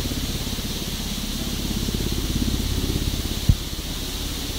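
Wind rumbling on the microphone of a moving bicycle, over a steady hiss of tyres on the road, with a single sharp knock about three and a half seconds in.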